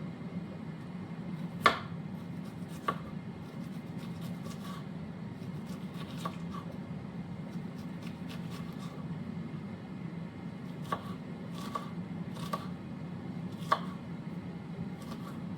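Knife cutting food on a cutting board: scattered sharp knocks a second or more apart, the loudest near the start and near the end, over a steady low hum.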